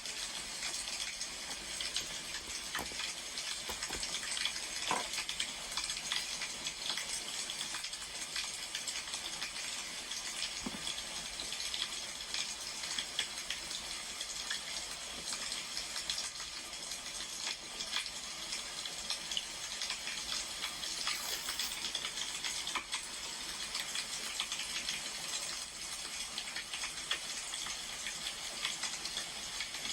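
Wood fire crackling: a steady hiss with scattered small pops and snaps throughout.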